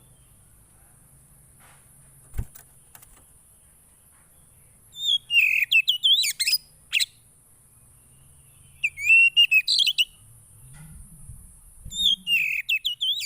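A poci songbird singing three short bursts of rapid, warbling chirps, a few seconds apart. There is a single click a little over two seconds in, and a faint high hiss throughout.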